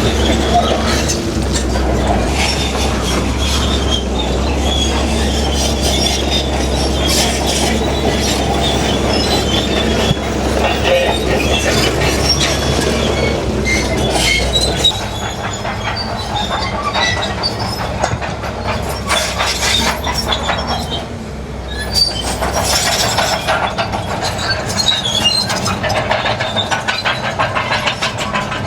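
Heavy crawler bulldozer working rock: diesel engine running under load with steel tracks clanking and squealing and rock grinding. The engine's deep drone drops off about halfway through while the track squeal and clatter go on.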